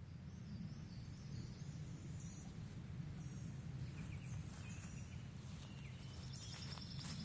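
Birds chirping in short, high calls, with a rapid trill near the end, over a steady low rumble.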